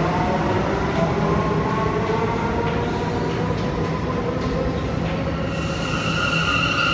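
New York City subway train running through the station with a steady rumble and a motor whine that slowly rises in pitch as it picks up speed. About five and a half seconds in, a high steady squeal joins it.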